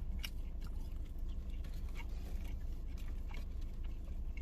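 A person chewing a mouthful of burger with soft, irregular wet clicks of the mouth over a low steady hum.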